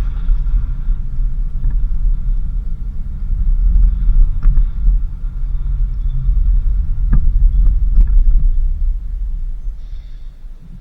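Low rumble of a vehicle driving on a dirt road, with a few sharp knocks from bumps partway through. It fades down near the end.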